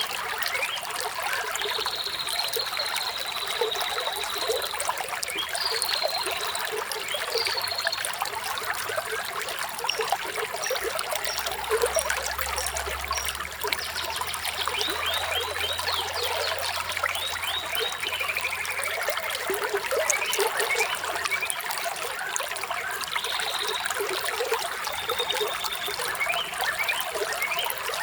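Small stream trickling and splashing steadily, with birds chirping now and then: short high calls, some held and some gliding down.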